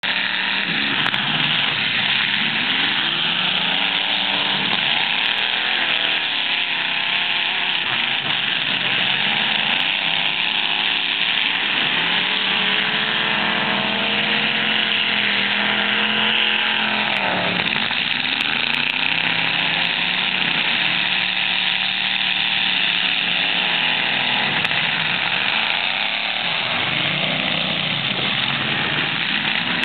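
Several demolition derby cars' engines running and revving at once, their pitches rising and falling against one another over a steady loud din.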